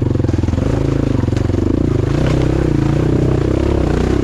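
Off-road motorcycle engine running close by, its revs rising and falling unevenly as the throttle is worked, with occasional clatter.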